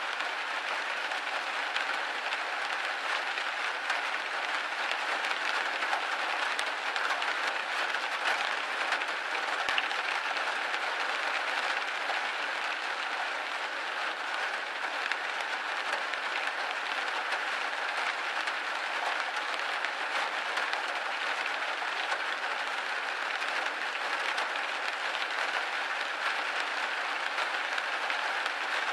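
Rain hitting a window pane: steady, dense patter of drops on glass.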